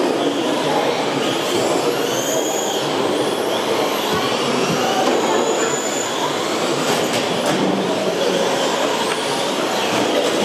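Several radio-controlled short course and stadium trucks racing together, their motors whining and rising and falling in pitch as they accelerate and brake over a steady rushing noise. A few sharp clacks come about seven seconds in.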